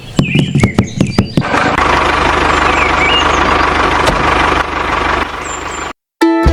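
A few quick knocks, then a DIY mini tractor's small engine starts and runs steadily with a fast, even chatter, cutting off abruptly near the end.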